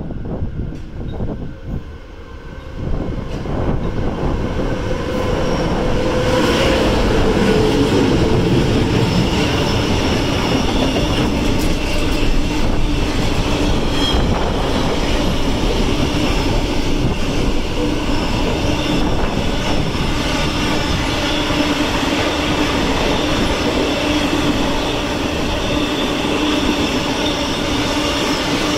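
Container freight train running through a station without stopping. The loudness rises sharply a few seconds in as the locomotive arrives, then the long line of wagons rumbles and clatters past over the rails, with a steady high whine from the wheels.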